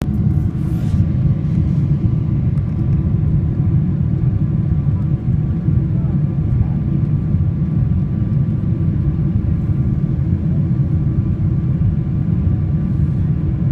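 Steady low rumble of a Boeing 777-300ER's GE90 jet engines, with a faint steady whine above it.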